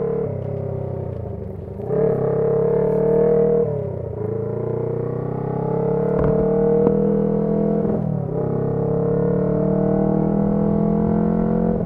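Honda CB125T's air-cooled 124 cc parallel-twin engine running under way through a loud muffler. The revs climb steadily, dip briefly and climb again several times, like a bike pulling up through the gears.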